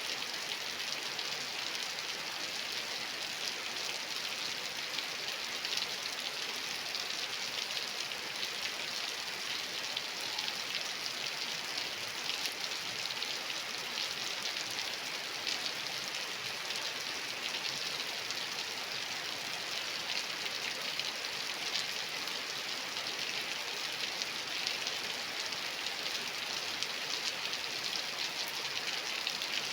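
Steady rain falling, a constant hiss of many fine drops pattering without a break.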